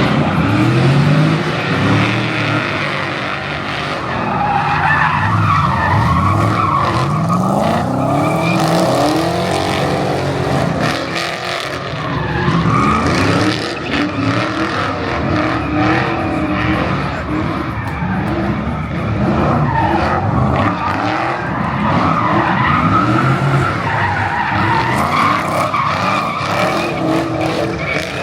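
Cars drifting in tandem: engines revving up and falling back over and over, with tyres skidding throughout.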